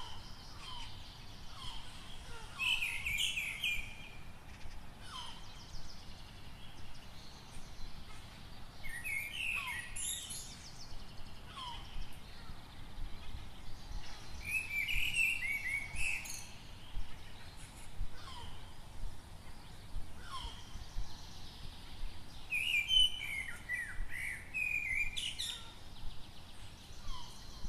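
Songbirds singing in the morning: a song phrase of two to three seconds recurs about every six seconds, with short falling call notes in between.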